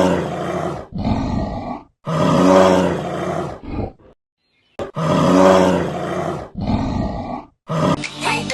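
A recorded animal roar played three times over, each lasting about two seconds with short silent gaps between, then a shorter roar near the end.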